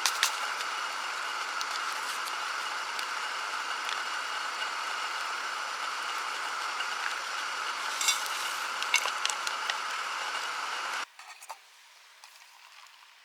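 Food sizzling in a small cast frying pan, a steady hiss with occasional small pops, cutting off abruptly near the end.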